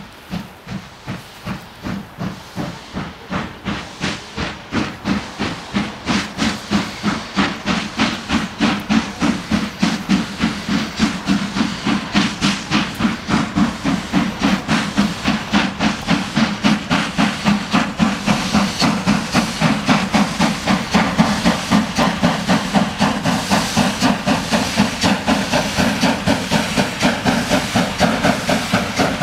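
JŽ class 33 steam locomotive 33-236, a Kriegslok-type 2-10-0, working hard at the head of a freight train. Its exhaust beats come about twice a second at first, then grow quicker and louder until they run together, with steam hissing.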